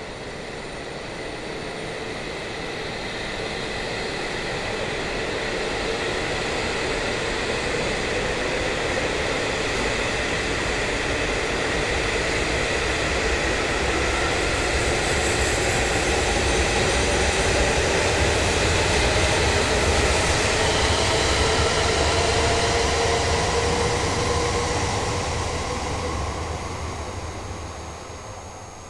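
Tohoku Shinkansen bullet train pulling out: a whine that climbs slowly in pitch as it gathers speed over a running rumble that builds, then dies away in the last few seconds as the final car leaves.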